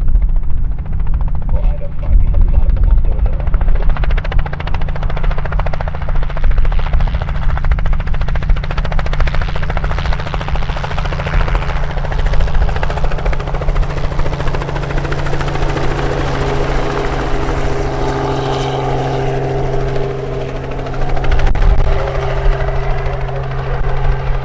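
Robinson R44 Clipper II helicopter running, its main rotor and six-cylinder piston engine making a loud, steady low drone; a few higher steady tones join in about two-thirds of the way through.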